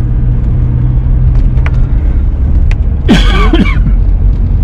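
Steady low car engine and road rumble inside a moving car's cabin. About three seconds in, a man briefly clears his throat.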